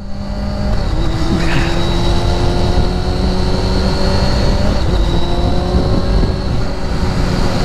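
Steady vehicle engine drone and road rumble while driving, with no change in pace.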